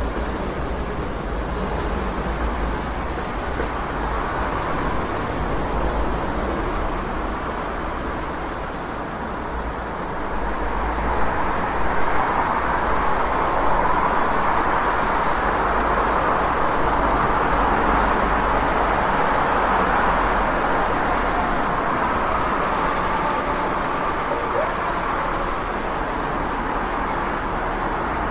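City street traffic: a steady wash of passing cars and other vehicles, swelling louder about ten seconds in as heavier traffic goes by.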